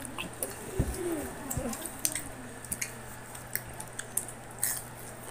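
Close-up chewing of crispy fried cheese sticks on a clip-on microphone: scattered crunchy clicks throughout, with two soft bumps of a hand brushing the mic about a second in.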